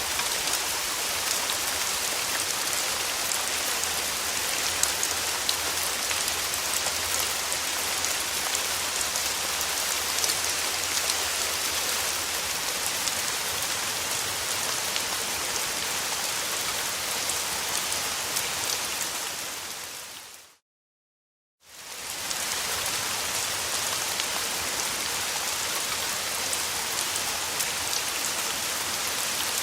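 Steady summer rain falling, a dense even hiss with fine drop ticks. About two-thirds of the way in it fades out to a second of total silence, then fades back in as before.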